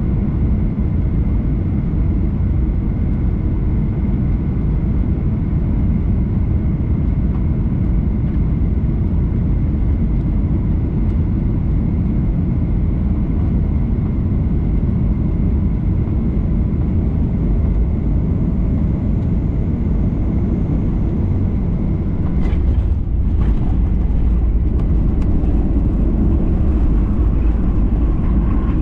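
Boeing 737-800 cabin noise: a steady low rumble of engines and airflow. About three-quarters of the way through come a few short knocks, and the rumble then grows louder and deeper.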